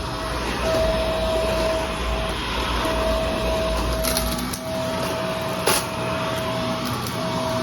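Vacuum cleaner running: a steady whine over a rushing hiss. The low rumble drops away a little past halfway, and a single sharp click comes shortly after.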